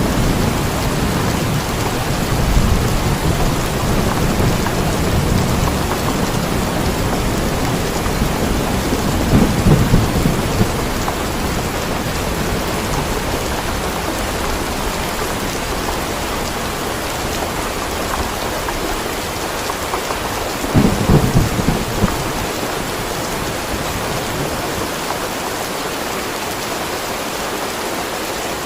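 Steady rain with rolling thunder: a low rumble fades away over the first half, with short louder rumbles about a third of the way in and again about three quarters through.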